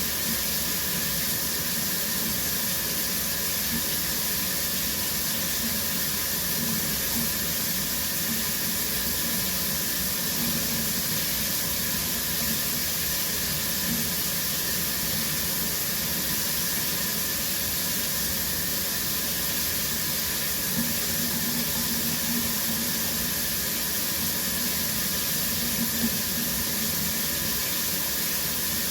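Shower running steadily: an even, unbroken hiss of water spraying and splashing down.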